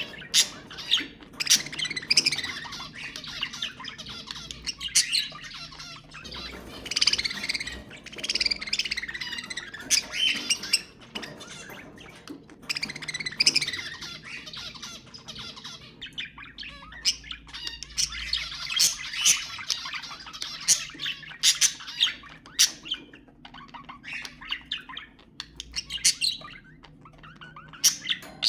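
A flock of budgerigars chattering, with rapid warbling, chirps and sharp squawks overlapping without a break: the busy chatter of breeding-condition budgies.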